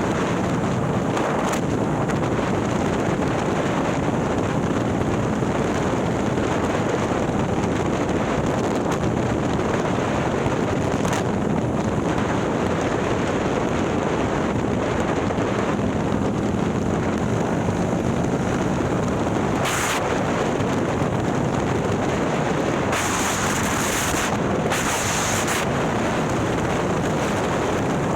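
Harley-Davidson Milwaukee-Eight V-twin, bored out to 130 cubic inches with a ThunderHeader exhaust, running on the road under heavy wind noise on the microphone. Brief surges of hiss twice in the second half.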